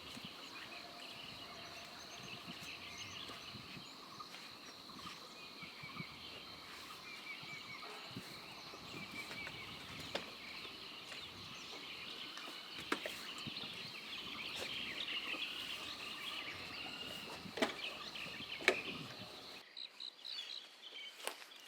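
Birds chirping and twittering over a steady high-pitched drone, with a few sharp clicks or knocks scattered through. The background changes abruptly a couple of seconds before the end.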